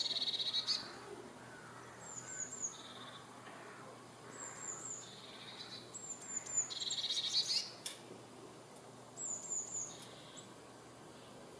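Songbird singing a short phrase over and over, about every two seconds: a few quick, high, falling notes, then a lower, rapid trill.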